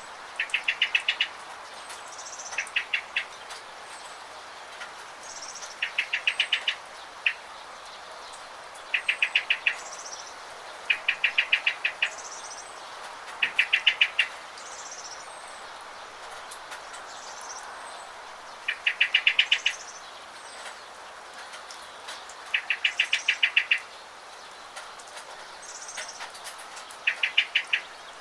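Songbirds calling: short, rapid, stuttering trills recurring every few seconds, with thin high chirps between them. These run over a steady hiss of rain.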